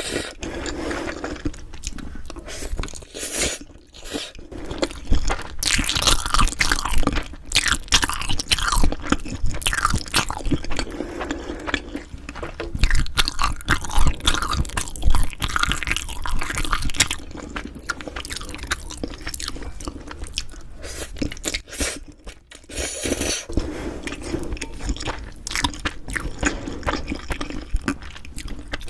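Close-miked eating: a person chewing and biting food with crunchy, crackling chews, busiest and loudest through the middle, with a brief lull about three quarters of the way in.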